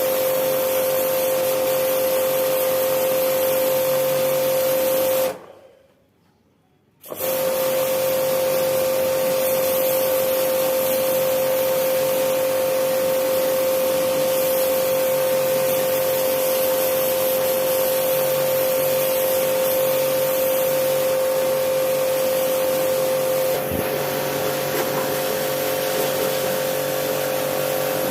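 A motor running steadily with a constant whine and a hiss. It drops out abruptly for under two seconds about five seconds in, then picks up again.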